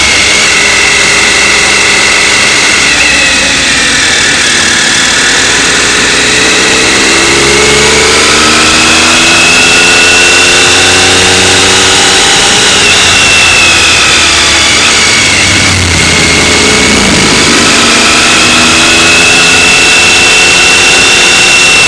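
Motorcycle engine running under way, its revs rising and falling slowly, with a dip about two-thirds of the way through.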